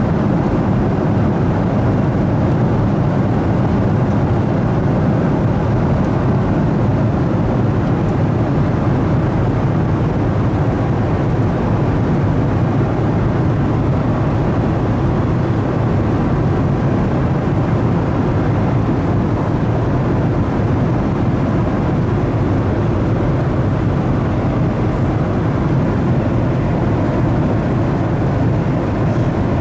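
Steady cabin noise of a Boeing 737-900ER in flight: a constant even rush of engine and airflow noise, mostly low in pitch.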